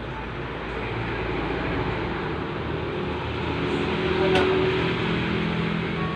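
Steady vehicle rumble and noise, with a low engine hum that swells about halfway through and peaks around four seconds in.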